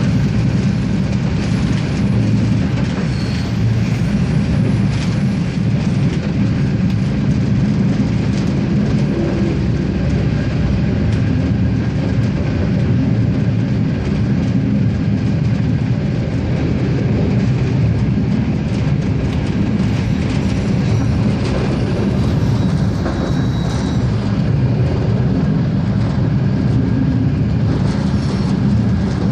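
Regiosprinter diesel railcar running along the track: a steady, even rumble of engine and wheels on rail, with faint clicks from the running gear.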